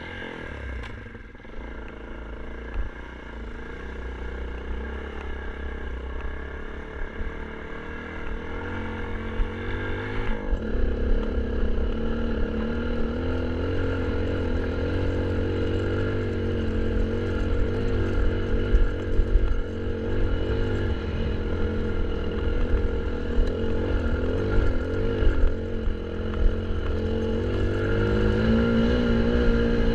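Kawasaki KLX 150 dirt bike's single-cylinder four-stroke engine running and growing louder. Its note shifts about ten seconds in and climbs in pitch near the end.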